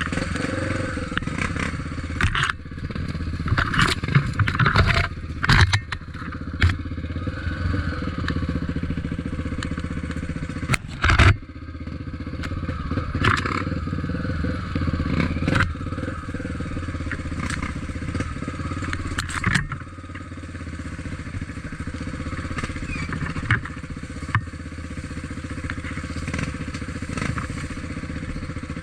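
Off-road motorcycle engine running steadily under way, with repeated knocks and clatter as the bike bounces over rough ground. The loudest knocks come about four to six seconds in and again around eleven seconds.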